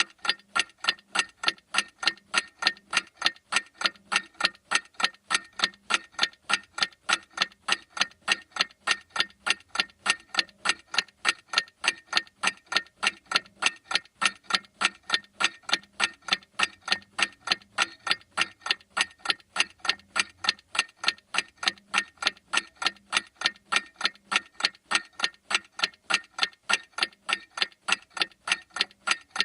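Clock ticking: a fast, even run of sharp ticks, several a second, without a break.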